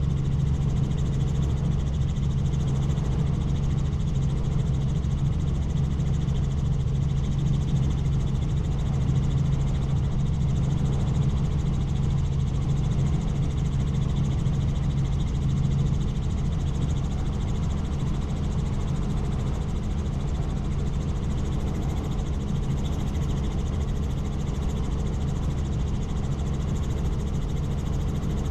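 Helicopter in flight: a steady, loud drone of rotor and engine, dropping slightly in level about halfway through.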